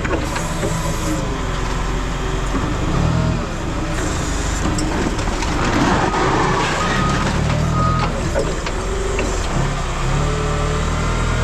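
Engine of a yard machine running and working, its pitch shifting as it moves. A reversing alarm beeps a few times around the middle.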